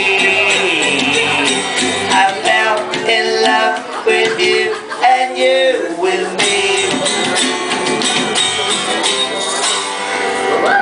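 A band playing a song, with a tambourine jingling over the instruments.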